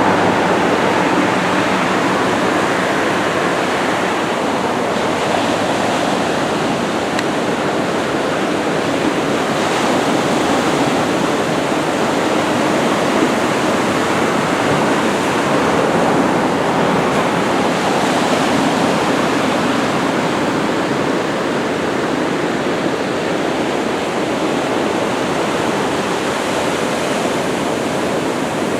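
Ocean surf breaking steadily on the beach: a continuous, even rush of waves from typhoon swell.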